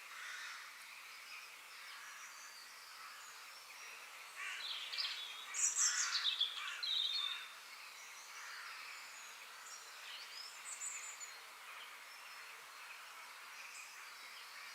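Forest ambience: a steady soft hiss with faint bird calls scattered through it. Around the middle a nearer bird sings a louder burst of quick, varied chirping notes lasting about three seconds.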